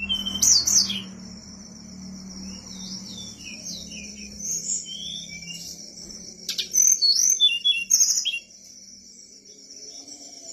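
A sulingan gunung songbird singing gacor, a lively run of quick chirps and sliding whistled notes, loudest near the start and again in a burst about two-thirds of the way through. A steady thin high whine runs underneath.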